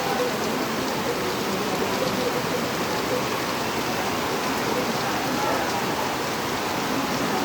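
Steady rain falling, an even hiss of drops on the ground, with faint distant voices calling now and then.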